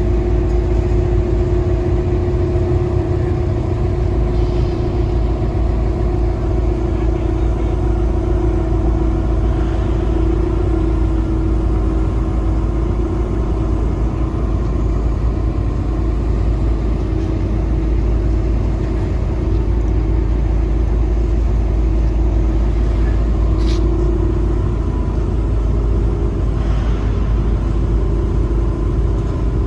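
Ship's engine running steadily, a deep rumble with a steady hum over it. A brief faint click about two-thirds of the way through.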